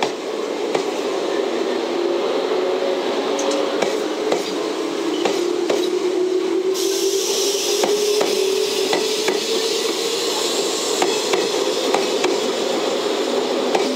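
JNR 381 series electric train pulling out of a station, its motors whining in a tone that rises slowly as it picks up speed. The wheels clack over rail joints, the clacks coming closer together. A high hiss joins about halfway through.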